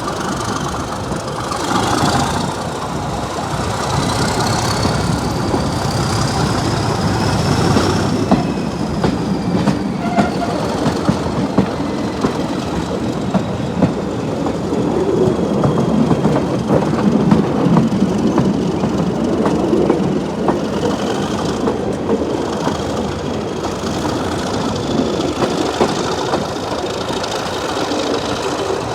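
A diesel-hauled train behind Class 37 locomotive 37250 running along the line: a steady engine and wheel rumble, with rapid clicks of the wheels over the rail joints. A high whine rises and falls over it.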